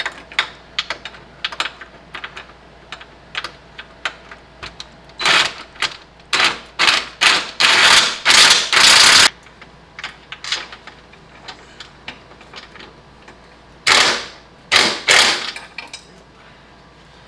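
Socket ratchet clicking in quick strokes as a mount bolt is run down with a 16 mm socket, with louder, longer bursts of fast ratcheting in the middle and again near the end.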